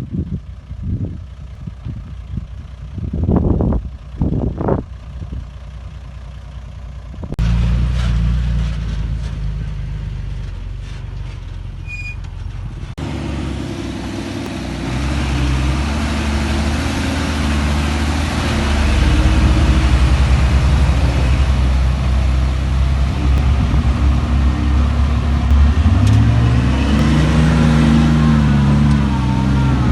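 Heavy diesel engines of earthmoving machinery running under work load, heard in a few abrupt cuts. The first few seconds hold several short loud bursts. Near the end the engine note rises and falls as it revs.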